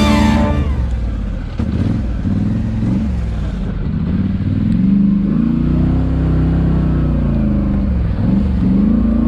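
A motor vehicle's engine revving up and down several times, its pitch rising and falling every second or two.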